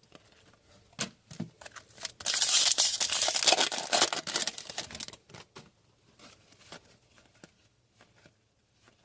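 A foil trading-card pack wrapper being torn open and crinkled for a couple of seconds, about two seconds in. Light clicks and flicks of cardboard cards being handled come before and after it.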